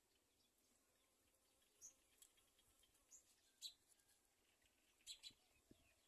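Faint bird chirps: about six short, high-pitched calls scattered through the otherwise quiet window.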